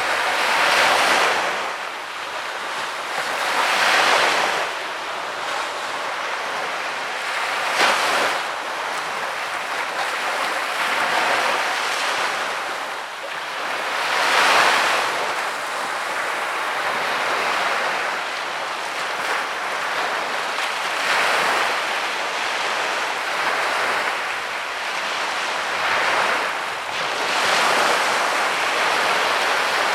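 Sea waves breaking and washing onto a beach, a surge of surf every few seconds over a steady wash.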